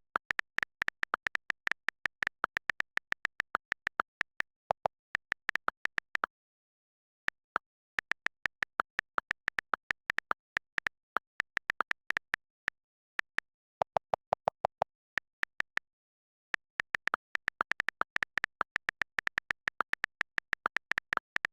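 Typing on a computer keyboard: quick runs of key clicks, several a second, broken by short pauses of dead silence.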